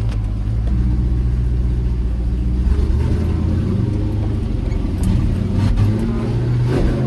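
Old pickup truck's engine running steadily while driving, heard from inside the cab; the engine note shifts about three seconds in. A few short rattles or knocks come near the end.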